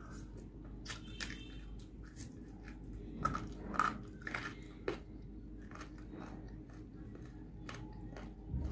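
A person chewing a mouthful of food, with many small crunches and wet clicks, loudest about three to four seconds in.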